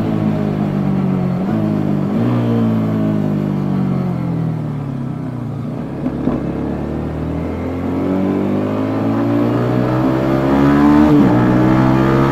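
Yamaha Jupiter MX King 150's single-cylinder four-stroke engine heard through its stock exhaust while riding. The revs fall away slowly as the bike slows, then climb again under acceleration, with a quick drop in pitch near the end, like a gear change.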